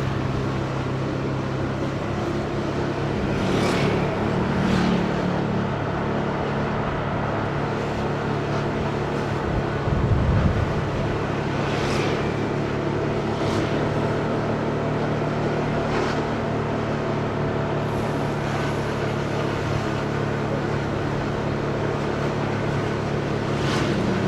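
Motorcycle engine running steadily at riding speed amid city traffic and road noise, with a few short hissing sweeps and a low thump about ten seconds in.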